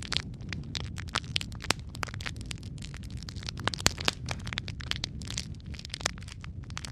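Wood fire crackling in a fireplace: irregular sharp pops and snaps over a steady low rumble of the burning, with one louder pop about four seconds in.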